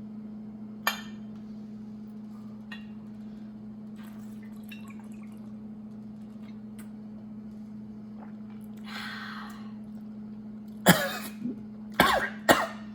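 A steady low electrical hum with a few faint clicks and handling sounds, then near the end a person coughs sharply three times.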